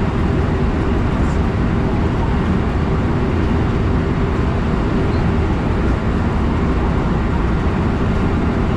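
Electric train running on the JR West Kyoto Line, heard from inside the front passenger car: a steady low rumble of wheels on rail and running gear, with a faint steady hum.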